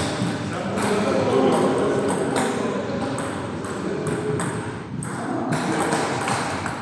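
Table tennis balls clicking off paddles and table tops, a few sharp clicks a second at irregular intervals, over a steady murmur of voices.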